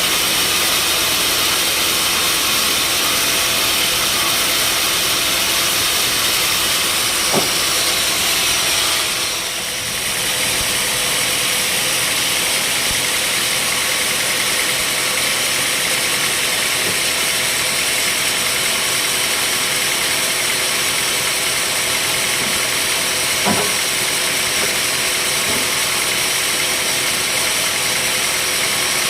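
Sawmill machinery running steadily: a constant engine drone with a strong hiss, dipping briefly about ten seconds in, with two short sharp clicks.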